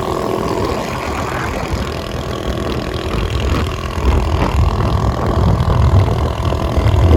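Suzuki Skydrive 125 scooter's engine running steadily, a continuous low rumble.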